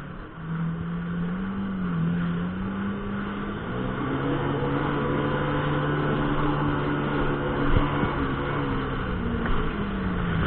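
Jet ski engine running under way: its pitch climbs about half a second in, holds steady at speed through the middle, then drops away near the end as the throttle eases, over a steady rushing noise.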